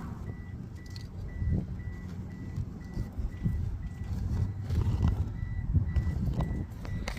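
Mitsubishi 4G63T turbocharged four-cylinder engine running unevenly on its first startup, with a faint high electronic beep repeating about three times a second. The owner takes the turbo to be blown, with a failed seal.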